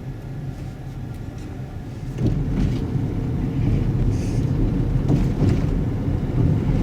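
A low, steady vehicle rumble that grows louder about two seconds in.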